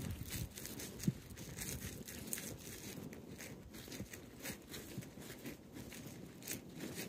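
Horse's hooves crunching through snow at a walk, a faint irregular crunch about twice a second.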